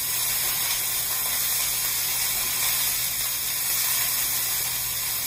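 Chopped leek, celery, carrot and garlic sizzling in hot oil in a stainless steel sauté pan as they are stirred with a spatula: a steady hiss, raised by water from the rinsed leeks hitting the oil.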